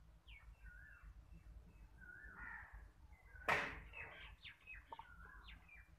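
Faint birds calling: short chirps that rise and fall in pitch, scattered throughout, with one brief sharp noise about three and a half seconds in.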